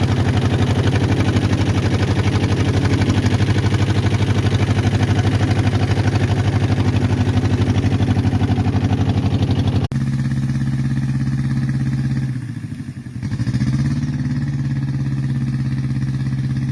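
Small boat engine running steadily with a fast pulsing beat. About ten seconds in the sound changes abruptly. A little later the engine briefly drops in speed and then picks back up.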